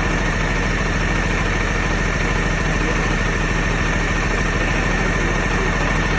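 Garbage truck engine idling steadily.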